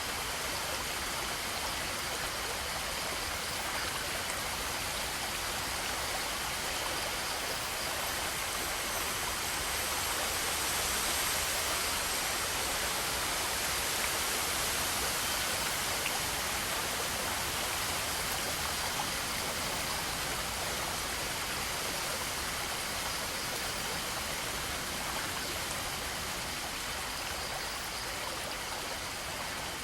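Steady rush of running water, a little louder midway through.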